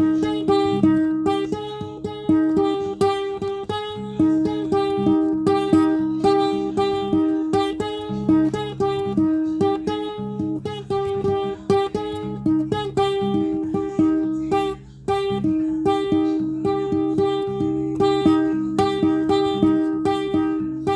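Solo guitar music: individually plucked notes in a steady, flowing pattern over sustained bass notes, with a brief pause about fifteen seconds in.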